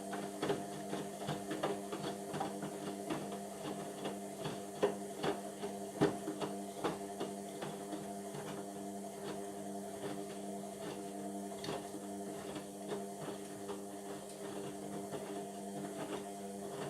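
Indesit washing machine running mid-way through a Cottons 40 wash: a steady motor hum with many irregular light clicks and knocks, more frequent in the first half.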